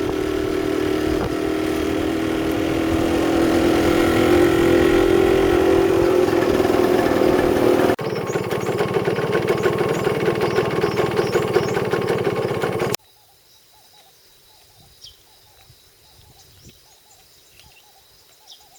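A 100cc motorcycle engine running steadily and loudly, in two stretches joined by a cut about 8 seconds in. About 13 seconds in it cuts off abruptly to a quiet background with faint bird chirps.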